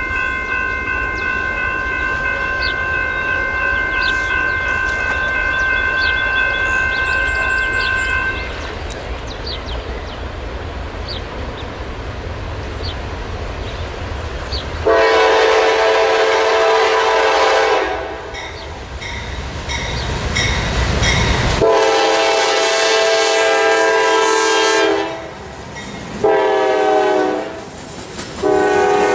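Diesel freight locomotive approaching with a low engine rumble, its air horn sounding the grade-crossing signal: two long blasts, a short one, then a long one starting near the end. A fainter held horn chord sounds for about the first eight seconds.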